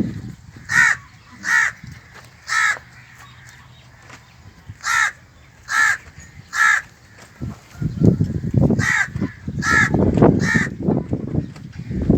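A crow cawing in three bursts of three short, harsh caws each. A low rumbling noise comes in during the second half.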